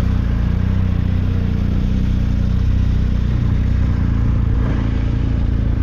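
Motorcycle engine running at a steady pitch under way, over a steady rush of wind and road noise.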